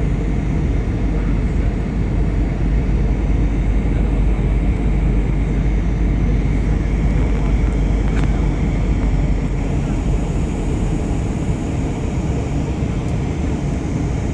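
Steady engine and airflow noise of an airliner in flight, heard inside the passenger cabin.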